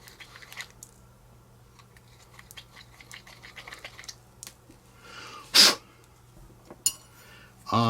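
Light scraping and small clicks of a hand deburring tool working the edge of a drilled hole in a steel vise stop. About five and a half seconds in, a single short, loud burst of noise.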